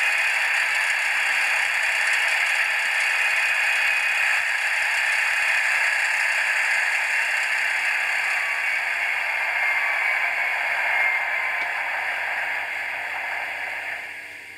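N-scale BR 218 model diesel locomotive running, a steady rattling whir from its drive and small sound-decoder speaker that fades away near the end. It is the sound and running behaviour the owner is not happy with.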